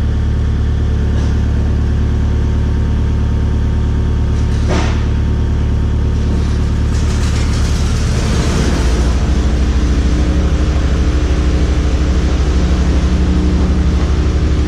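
Kubota KX057-5 excavator's diesel engine running steadily, with a brief hiss about five seconds in. About eight seconds in the engine note steps up and gets a little louder as the hydraulics are worked.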